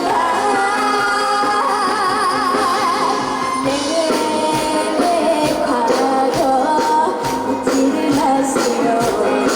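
Trot song performed live by a young female singer over a backing track with steady percussion, amplified through a PA system. She holds a note with wide vibrato about two seconds in.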